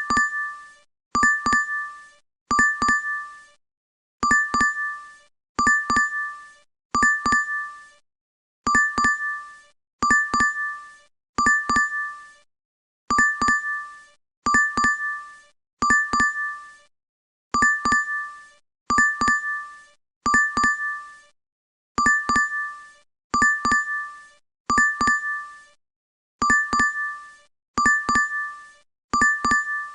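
DoorDash app notification chime: a short bright ding of two or three quick notes, played over and over about every second and a half, each one fading out quickly.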